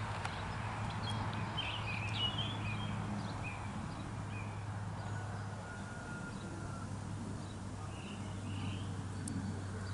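Scattered bird chirps over a steady low hum, with a cluster of calls in the first few seconds and another near the end.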